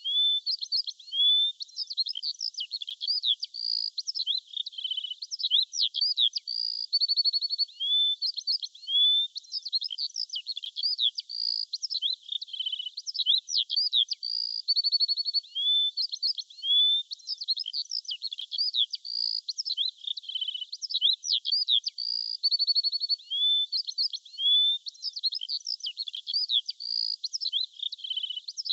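Birdsong: a dense run of quick chirps, short rising and falling whistles and fast trills, with the same phrase sequence repeating about every eight and a half seconds as a loop.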